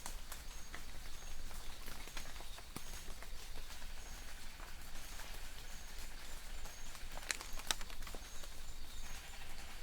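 Light rain falling in a forest, a steady patter with separate drops tapping on leaves, and a couple of louder drops about three-quarters of the way in. Distant birds give short, high, repeated chirps over the rain.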